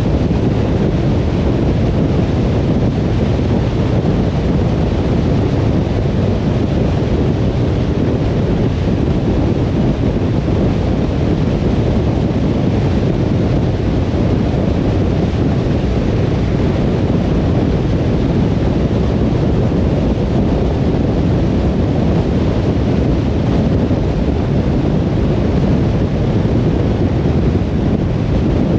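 Steady low rumble of a car driving on the road: tyre and wind noise with no distinct events.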